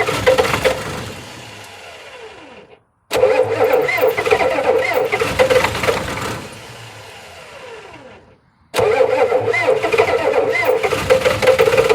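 Diesel pickup truck engine on a cold start, cranked and run in three bursts. Each of the first two fades away with a falling pitch and stops, as if the engine fails to keep running, before it is cranked again.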